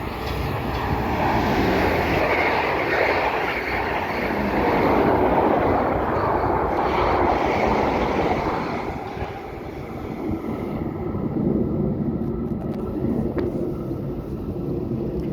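A train running through the station: a loud, rushing rumble of wheels and motors for about nine seconds, which then eases into a quieter, steady hum.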